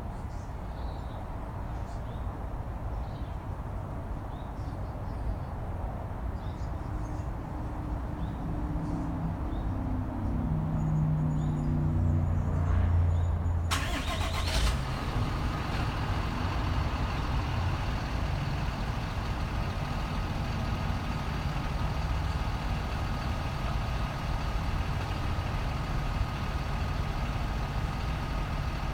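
Engine running with a steady low rumble, its pitch rising briefly; about fourteen seconds in a steady hiss with a thin whine starts suddenly and carries on.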